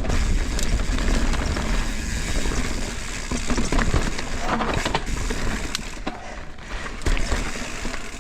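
Mountain bike riding down a dirt jump line: knobby tyres rolling on the trail, with wind rumbling on the microphone and scattered knocks and rattles from the bike over bumps and landings.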